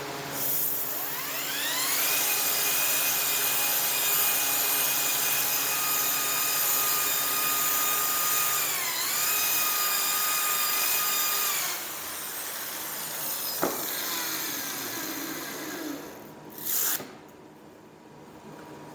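Handheld electric power tool spinning up with a rising whine, running steadily with a brief dip in pitch about nine seconds in, then winding down after about twelve seconds. A sharp click and a short loud burst of noise follow near the end.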